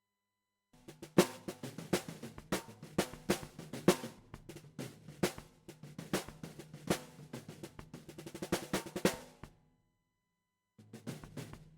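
Drum kit track playing back a busy groove of kick and snare hits with fills. It starts about a second in, cuts off dead near three quarters through, and starts again just before the end, as playback is stopped and restarted.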